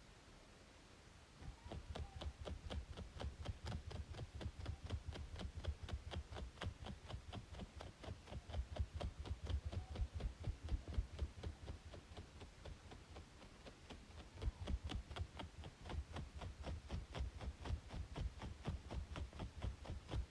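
Rapid, rhythmic scratching on a braided scalp, about five short strokes a second, easing off for a couple of seconds past the middle.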